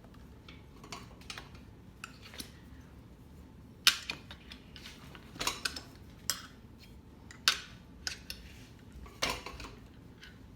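Metal tire spoons clinking and scraping against a dirt bike wheel rim as the tire bead is levered on. Irregular sharp clicks, with the loudest strikes about four, seven and a half, and nine seconds in.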